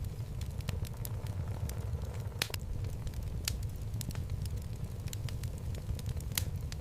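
Wood fire burning in a fireplace: a low steady rumble of flames with irregular sharp crackles and pops from the burning logs, the loudest pop about two and a half seconds in.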